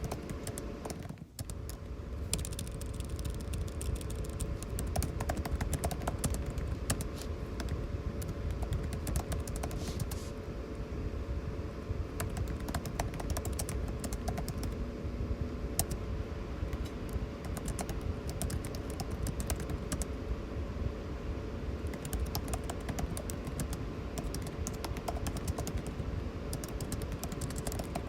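Typing on a computer keyboard: a running, uneven patter of keystrokes, over the steady hum of air conditioning. The sound drops out briefly about a second in.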